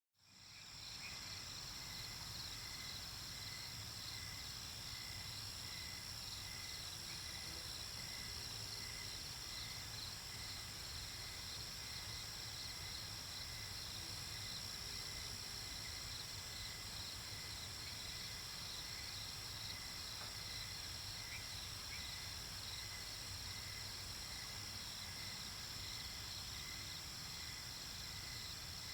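Night-time nature ambience: crickets and other insects chirping in a steady, continuous chorus of several high pulsing trills over a low rumble. It fades in from silence at the very start.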